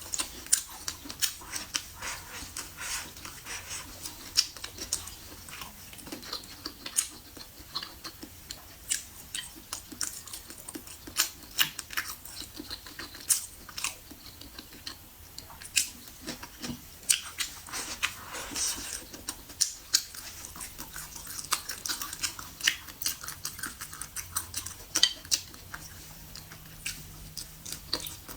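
A person chewing and eating food close to the microphone, with many irregular sharp mouth clicks and smacks.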